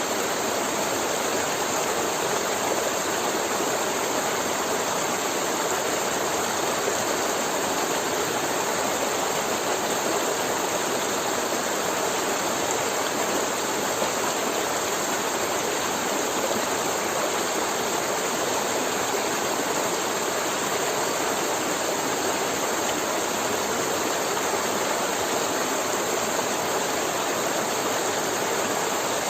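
A forest river flowing and gurgling, a steady rush of water.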